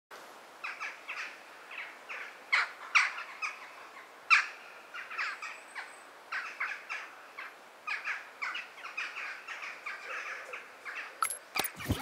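Birds chirping: a dense run of short chirps and calls, with a few sharper clicks near the end.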